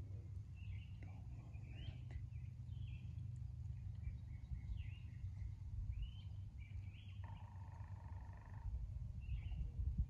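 Small birds chirping with short, scattered notes. About seven seconds in, a single held whistled note lasts over a second. A steady low rumble runs underneath.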